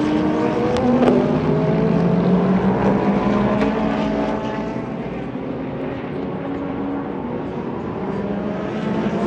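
Several sports-prototype and GT race cars' engines at once, passing at speed, their notes sliding in pitch as they go by. Loudest in the first few seconds, easing a little past the middle and building again near the end as more cars arrive.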